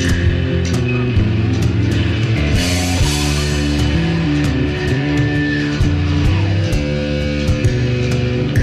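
Instrumental rock music: electric guitars and bass over a steady drum beat, with a cymbal crash about two and a half seconds in.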